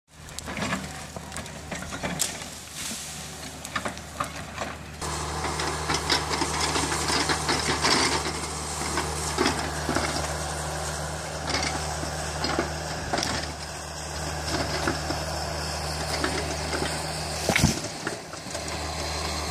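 Tracked excavator's diesel engine running steadily under work, louder from about five seconds in, with frequent knocks, cracks and clanks as it breaks up wood, and one sharp loud bang near the end.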